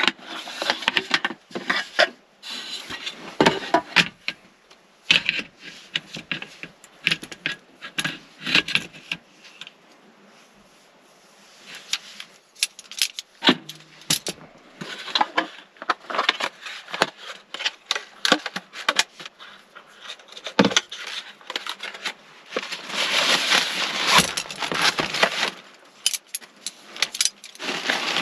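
Irregular clicks, clinks and rustles of small objects being handled at close range, with a denser stretch of hissing and rustling near the end.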